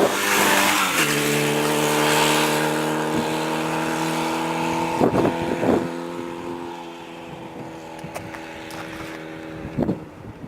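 Motorcycle engine dropping from higher revs in the first second, then running at a steady speed while the sound gradually fades, with a few brief knocks along the way.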